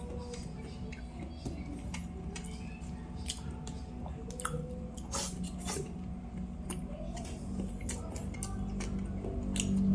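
Close-up eating sounds: wet chewing and lip smacking with many small clicks, from a mouthful of rice and sautéed string beans.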